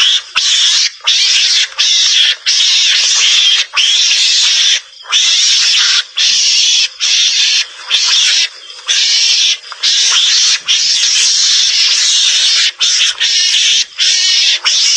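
Mongoose (garangan) calls from a hunting lure recording: a run of harsh, hissy calls, each a fraction of a second to over a second long, with brief gaps between them.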